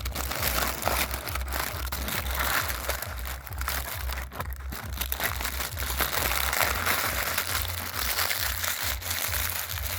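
Plastic toy packaging crinkling and rustling as it is handled, with many small clicks and knocks.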